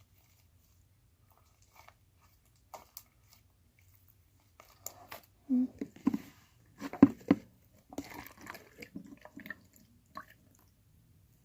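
Slime being squeezed and handled, giving sticky crackling and squelching clicks. They come mostly in the second half, with a couple of louder snaps.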